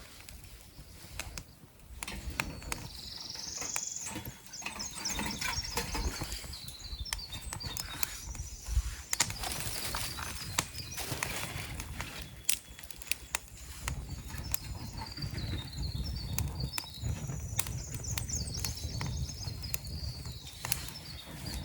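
A small bird singing high, quick trills in repeated phrases, over scattered knocks and a low rumble of wind or handling noise.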